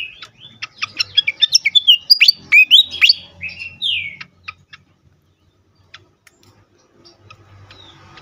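Fantail flycatcher (sikatan kipas) calling agitatedly: a rapid run of sharp chirps and whistled notes sweeping up and down for about four seconds, then a few scattered clicks. A faint low hum creeps in near the end.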